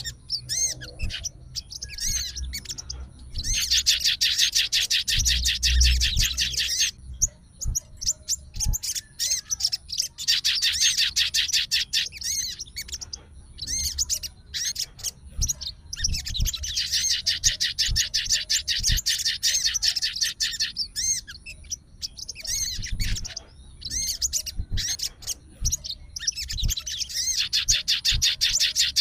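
Sogon (crimson sunbird) singing: long, fast, high-pitched trills of three to five seconds each, repeated four times, with shorter chirps between them.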